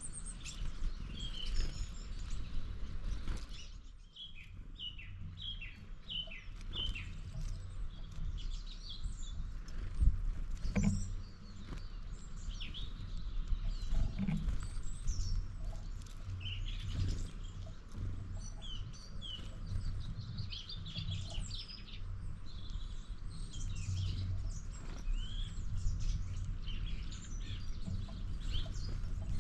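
Small birds chirping in many short, quick notes, over a steady low rumble, with a sharp knock about ten seconds in.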